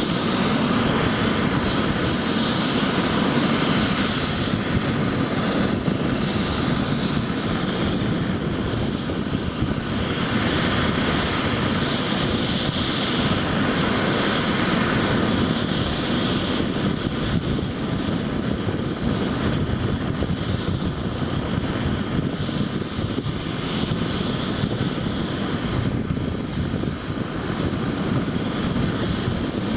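Bell 407 helicopter running steadily: turbine engine and main rotor with a thin, steady high whine over a dense, even noise.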